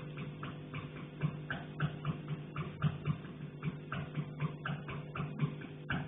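Quick, irregular tapping on a riser pipe, carried through the building's pipework, several taps a second over a steady low hum.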